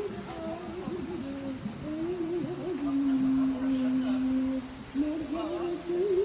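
Crickets chirping in a steady, continuous high-pitched trill. Underneath runs a low, wavering melody that holds one long note in the middle.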